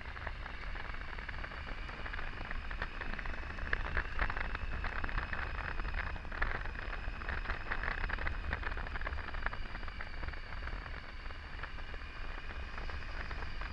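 Wind rushing over the microphone of a Triumph Tiger 800 riding at road speed, with a faint, steady engine whine under the rush.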